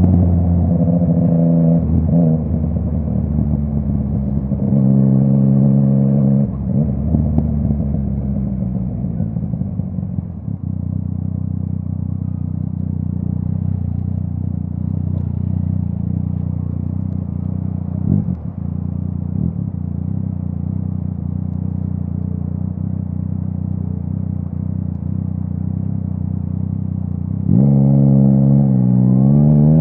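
Yamaha MT-09 three-cylinder engine through a full Akrapovic exhaust, the revs falling off over the first ten seconds, then holding a steady lower note, with a couple of short sharp knocks near the middle. Near the end the throttle opens and the pitch climbs steeply as it accelerates hard.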